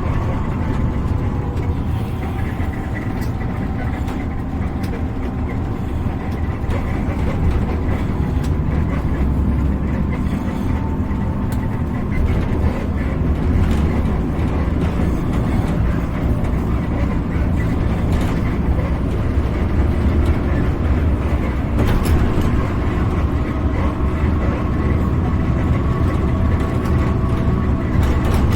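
Steady low rumble of motor vehicle engines and tyres on the road, with faint steady engine tones, growing a little louder about halfway through.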